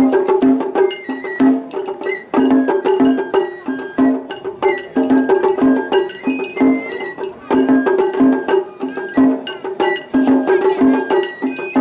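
Japanese festival hayashi music played continuously: a high bamboo-flute melody over quick, steady drumming, with a metallic clang of a small hand gong among the strikes.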